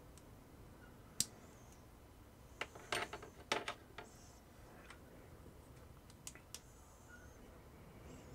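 Small hard plastic parts clicking and knocking as they are handled: a sharp click about a second in, a quick cluster of clicks around the middle, and two lighter clicks later.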